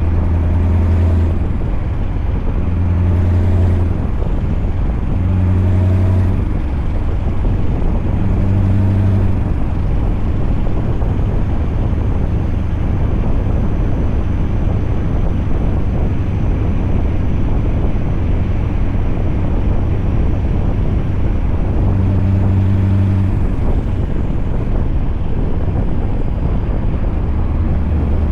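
Scania V8 truck engine running under way, a steady low drone. The engine note swells briefly every few seconds, four times in the first ten seconds and once more about 22 seconds in.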